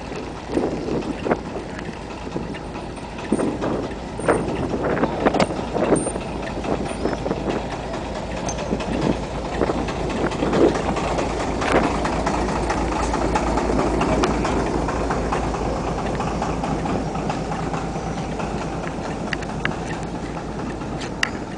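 Narrow-gauge diesel train rolling slowly past: the locomotive's engine running, with the wheels knocking and clattering on the track as the coaches follow. It grows louder until the locomotive draws level, about halfway through.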